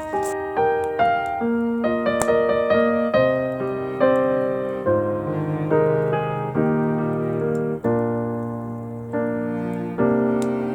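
Background piano music: a slow melody of single struck notes over held bass notes, each note fading away.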